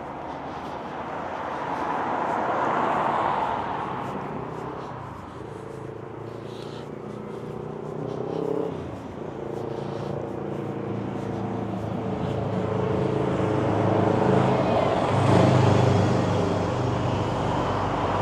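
Road traffic on a street. A car passes in the first few seconds. Then a vehicle engine's note climbs and drops about halfway through, and runs on steadily, getting louder towards the end.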